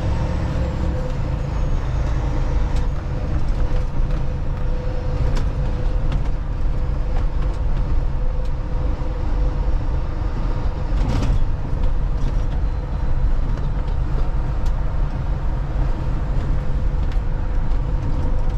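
Inside a semi-truck cab while driving: a steady low rumble of the diesel engine and road noise with a constant hum, and scattered short knocks and rattles from a rough road.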